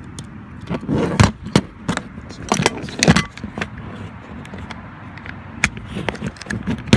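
Handling noise from a CO2 airsoft pistol: a series of plastic and metal clicks, knocks and rattles, in two louder clusters about a second in and about three seconds in, then scattered lighter clicks.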